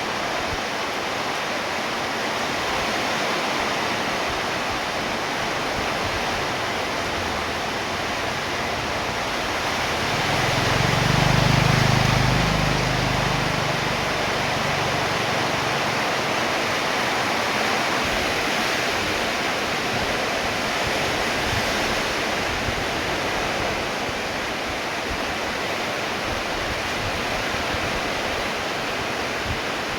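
Steady heavy rainfall, a dense even hiss. About a third of the way in, a low rumble swells for a few seconds and then fades.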